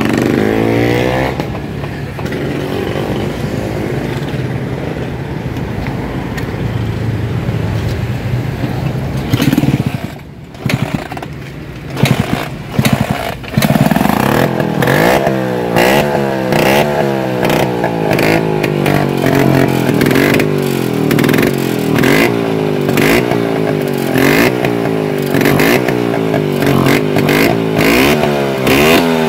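Classic Vespa scooter's two-stroke engine being test-run: it runs steadily, dips briefly about ten seconds in with a few sharp loud blips, then for the second half is revved up and down over and over, roughly once a second.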